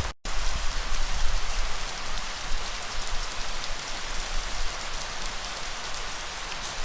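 Steady rain pattering on surfaces, a dense hiss of drops with a low rumble underneath. The sound cuts out completely for a split second just after the start, then resumes.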